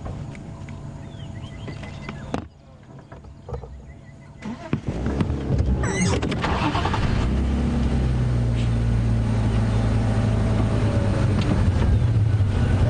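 Off-road game-drive vehicle's engine running as it drives through bush, with a few bird chirps at first. About two and a half seconds in, the sound drops away suddenly to a quieter stretch. From about five seconds the engine is louder and steady.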